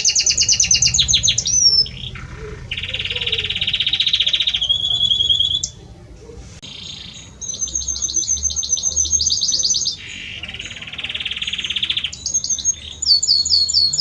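Male Belgian canary singing to a hen: rapid trills of repeated high notes alternating with lower buzzing rolls, with a brief break about six seconds in before the song resumes.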